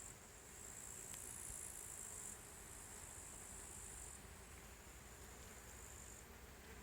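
Faint hum of many honeybees and other insects working a flowering linden tree, with a steady high-pitched insect trill over it that weakens about six seconds in.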